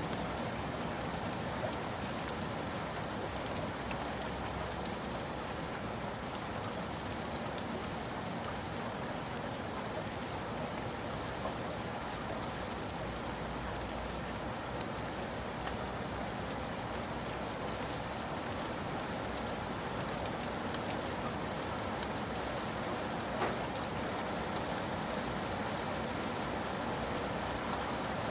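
Steady rain falling, an even wash with scattered individual drop ticks and one slightly louder drop about 23 seconds in.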